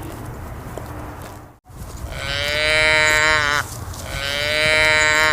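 Cow mooing twice, two long calls of about a second and a half each, the pitch dropping at the end of each call. Before the calls there is a steady outdoor rumble.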